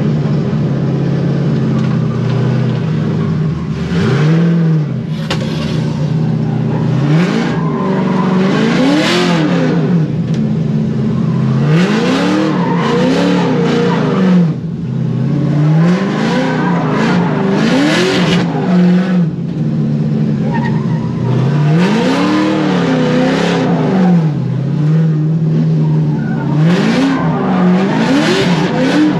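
Corvette drift car's engine revving up and dropping back over and over as it drifts through a warm-up lap, with tires squealing and skidding in bursts as the revs climb.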